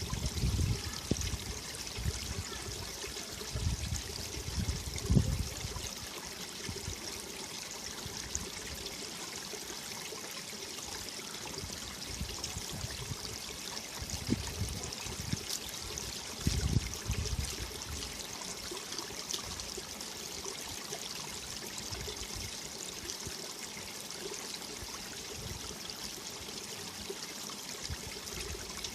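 Mountain valley stream rushing over rocks in a steady, even hiss. Low rumbles of wind buffeting the microphone come and go a few times, loudest near the start, about five seconds in, and again around the middle.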